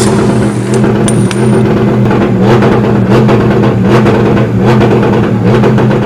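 A car engine running loudly, with a steady pitch that wavers slightly.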